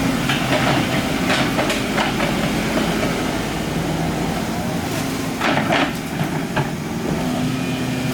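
Excavator's diesel engine running steadily under load, with a few sharp knocks of the machine working, the loudest about five and a half seconds in.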